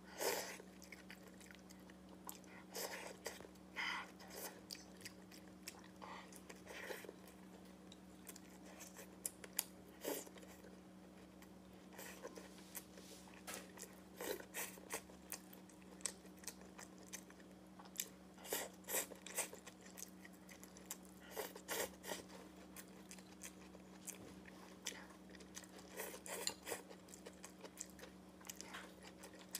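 Close-miked chewing, biting and lip smacks of a person eating a soft steamed bun and stir-fried dishes, coming in irregular short bursts over a steady faint hum.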